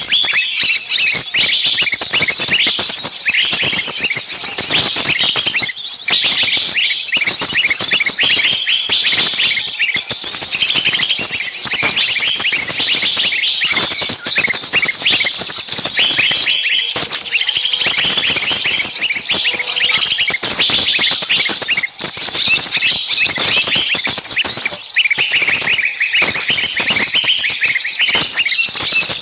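Dense, noisy chorus of many small songbirds chirping and calling at once, rapid high-pitched calls overlapping without a break. This is a bird-lure track of small birds' agitated, screaming calls, like a bird caught and crying out, used to draw other small birds in.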